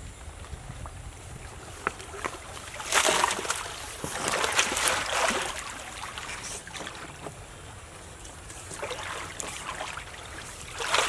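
Water splashing and sloshing in several irregular bursts over a steady background hiss, with dripping and trickling.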